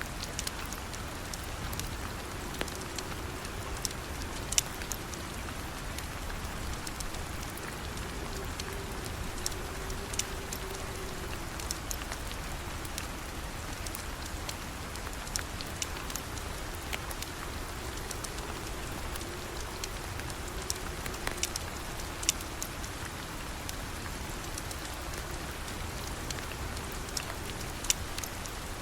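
Steady rain falling, with occasional sharp pops and crackles from a wood fire burning in a fireplace.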